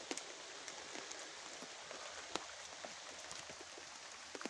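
Steady rain falling, with individual drops ticking sharply on nearby surfaces now and then.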